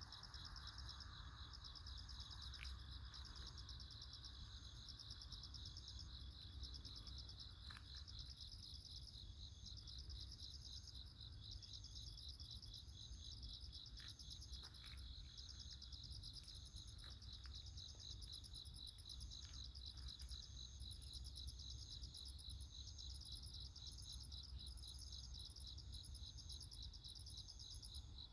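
Chorus of insects, crickets or katydids, trilling steadily with fast, even pulses and overlapping repeated phrases, over a faint low rumble.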